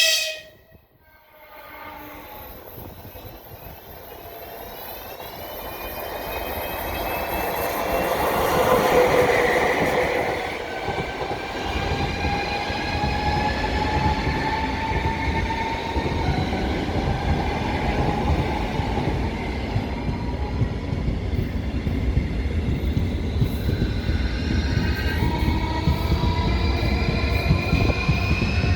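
Electric passenger train passing close through the station. A short loud blast at the very start, then its rumble builds to a peak about nine seconds in and holds steady, with whining tones over a heavy low rumble.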